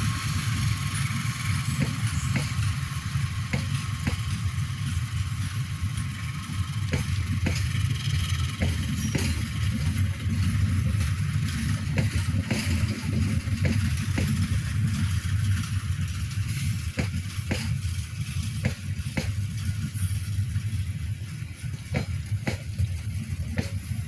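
Passenger train coaches rolling past close by. A steady low rumble, with the wheels knocking sharply over rail joints at irregular intervals.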